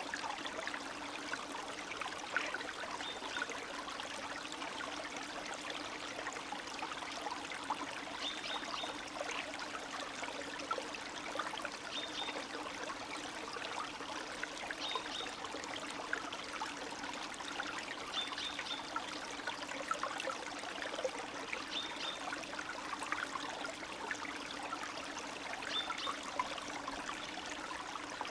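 Spring stream babbling and trickling steadily over its bed, with a busy patter of small splashes. A short high chirp recurs every three seconds or so.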